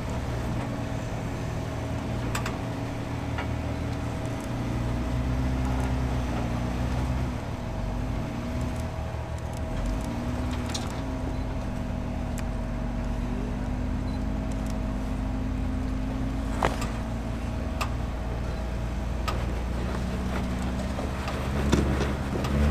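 Jeep engine running steadily at low revs, its pitch rising and falling slightly as the vehicle crawls, with a few scattered clicks and knocks.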